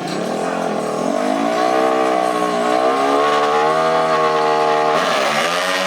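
Off-road racing engine revving hard on a run. It climbs in pitch about a second in and holds high with a slight wobble, dips and climbs again near the end, then drops away sharply.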